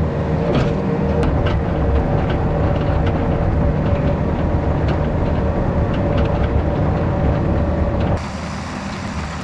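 Yanmar VIO50 mini excavator's diesel engine running steadily, with a steady higher tone over it and a few light clicks. About eight seconds in, the tone drops out and the engine sound becomes quieter.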